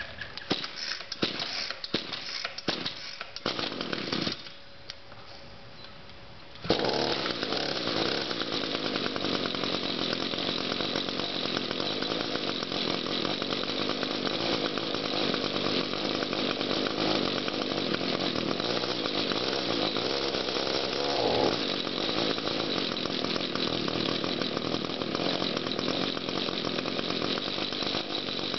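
Cold start of an Echo string trimmer's small two-stroke engine: a run of uneven pull-cord strokes, a short pause, then the engine catches about seven seconds in and runs on steadily at high speed, with a brief rise in revs about two-thirds of the way through.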